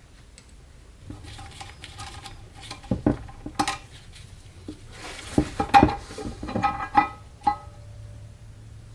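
Metal parts clinking and clattering against each other as they are handled: a string of knocks with short, ringing metallic tones, loudest about three and six seconds in, stopping about a second before the end.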